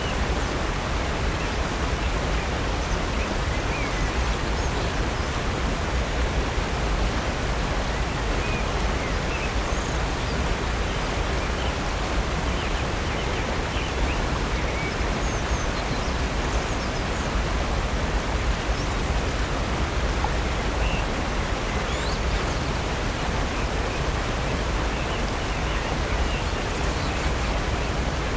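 Steady rush of a waterfall, Upper North Falls pouring into Silver Creek, an even unbroken roar of water. A few faint, brief bird chirps sound over it now and then.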